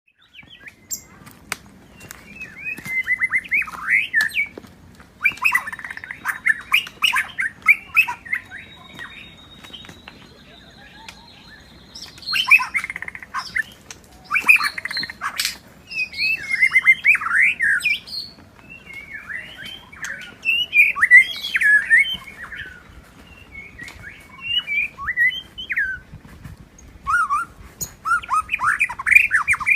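White-rumped shama singing: a run of varied phrases of quick, sweeping whistles and chatters, each a second or two long with short pauses between. A thin, steady high whistle runs beneath the song from about five to twelve seconds in.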